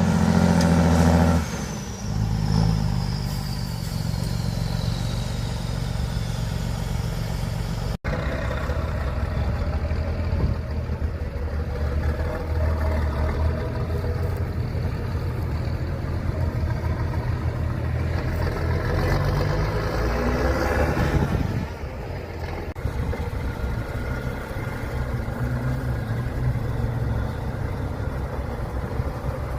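Heavy off-road trial truck engines running and revving under load, in several short takes with abrupt changes about 8 s in and near 21 s. A brief stretch of music ends about a second and a half in.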